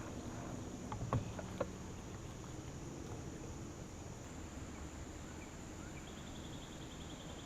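Insects droning steadily in a high, even band, with a few sharp clicks about a second in and a rapid pulsing trill starting near the end.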